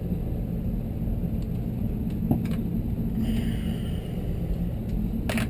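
Steady low hum in the background, with a few light metallic clicks and a sharper click near the end from sheet metal screws and panel parts being handled.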